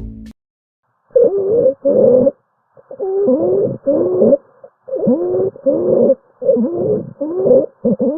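Young infant crying in short repeated cries, one about every 0.7 seconds, starting about a second in.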